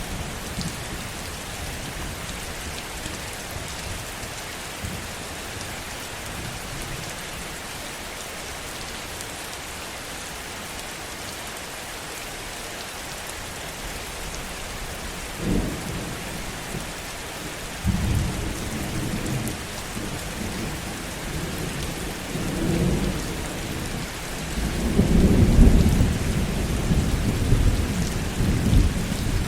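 Heavy steady rain with rolls of thunder rumbling in about halfway through and building, loudest a few seconds before the end.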